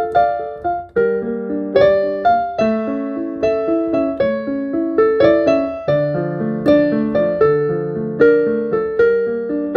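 Solo piano-style keyboard playing a moderate melody over chords, each note struck and fading away; the playing breaks off briefly about a second in, then carries on.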